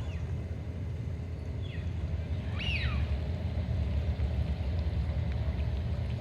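Steady low rumble outdoors, with a few short bird chirps about two and three seconds in.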